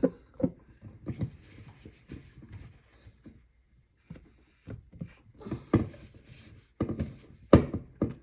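Kitchen clatter while cooking: a string of irregular knocks and thumps of things being handled and set down, the loudest one near the end.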